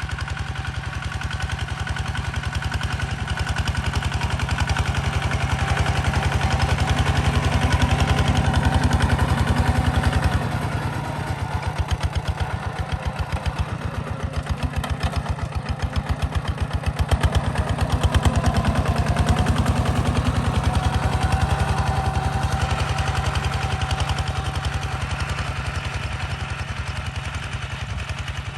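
Kubota ZT140 Plus single-cylinder diesel tractor engine running while plowing soil, with a rapid, even firing beat. It grows louder, eases off about ten seconds in, and swells again a few seconds later.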